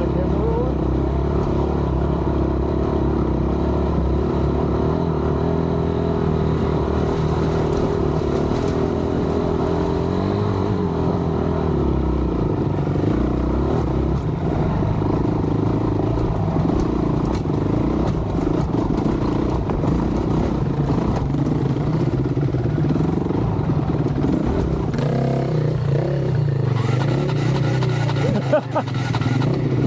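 Honda dirt bike engine running under load on a rocky trail, its revs rising and falling as the throttle is worked. There is one sharp knock near the end.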